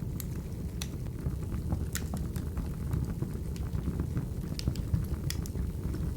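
Crackling wood fire: a steady low rumble with sharp pops and crackles at irregular intervals.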